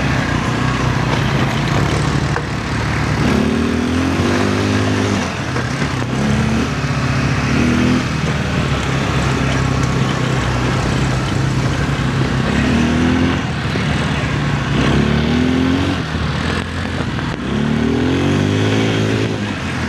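Quad bike (ATV) engine running under way, revving up several times as the throttle is opened, with a steady engine drone in between.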